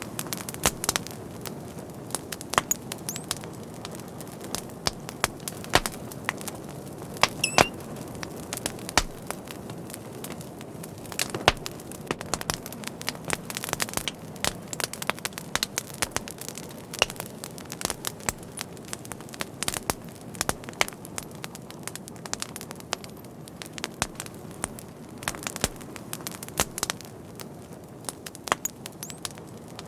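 Wood fire crackling: a steady low hiss of burning with frequent irregular sharp pops and snaps, a few louder than the rest, and a brief faint whistle of escaping gas about seven seconds in.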